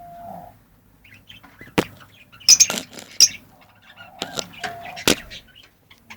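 Lovebirds chirping in short high calls, broken by several sharp clicks; the loudest clicks come about two seconds and five seconds in.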